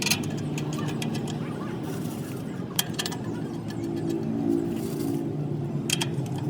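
A steady mechanical hum with a few sharp clicks or taps, about a second, three seconds and six seconds in.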